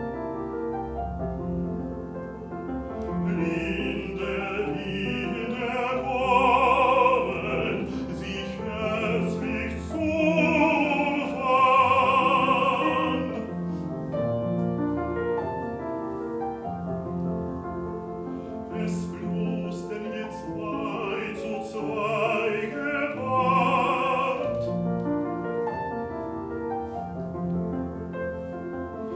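Classical baritone singing an art song with piano accompaniment, the voice in phrases with a wide vibrato and the piano continuing alone in the gaps between phrases.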